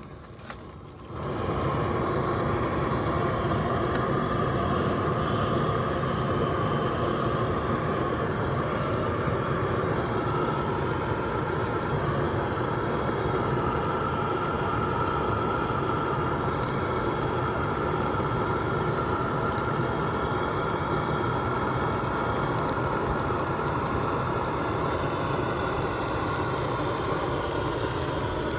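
Excavator engine running steadily, starting up loud about a second in.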